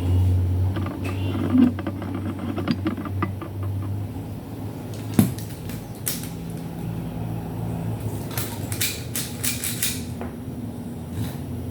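Small clicks and rattles of plastic and metal parts being handled while a stereo is taken apart. There is a run of light ticks early, one sharp click midway, and a cluster of clicks later, over a low steady hum.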